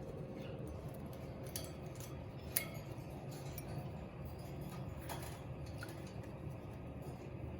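A few sharp clinks and taps from a cockatiel moving about in its water bowl, the loudest about two and a half seconds in, over a steady low hum.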